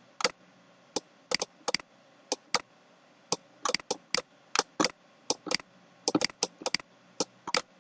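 Computer keyboard typing: irregular, unhurried keystroke clicks, a few per second with short pauses.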